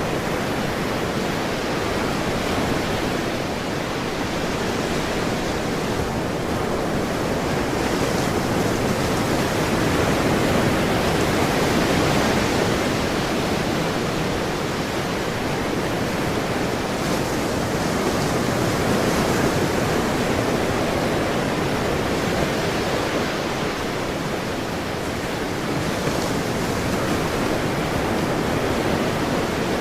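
Ocean waves washing continuously on a shore, a steady rush of surf that swells and eases slowly every several seconds.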